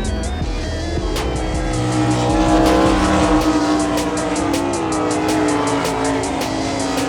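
Sprint car engines racing, their pitch rising and falling as they run laps, over background music with a steady beat.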